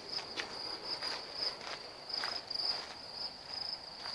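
Crickets chirping steadily in a continuous pulsing high trill, with a few faint scattered clicks or rustles.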